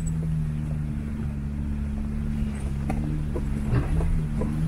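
Jeep Gladiator Rubicon's engine running with a steady low drone as it drives along a gravel track, with a few knocks and rattles about three to four and a half seconds in.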